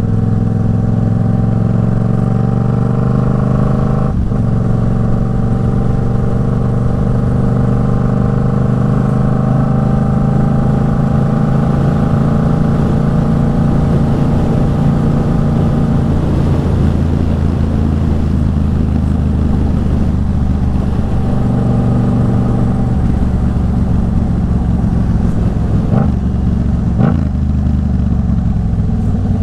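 Yamaha MT-07's 689 cc parallel-twin engine through an Arashi aftermarket exhaust, running at fairly steady riding revs with slow small changes in pitch. A few short sharp clicks come through, once about four seconds in and twice near the end.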